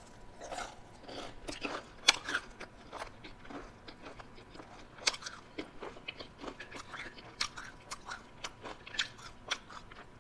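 Close-up chewing of a crunchy battered onion ring: irregular crisp crunches and bites, the loudest about two and five seconds in.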